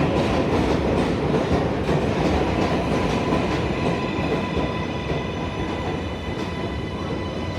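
New York City subway train running through the station on rail, wheels clattering over the track, with a faint steady high whine joining about halfway through.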